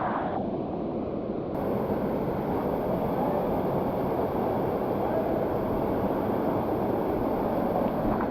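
Steady rush of water pouring down a creek waterfall.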